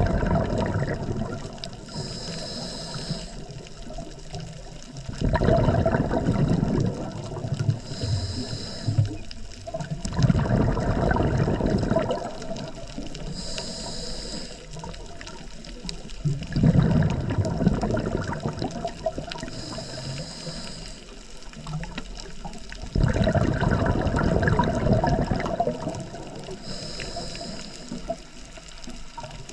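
Scuba diver breathing through a regulator underwater. A short hiss on each inhale alternates with a burst of exhaled bubbles, about every six seconds, five breaths in all.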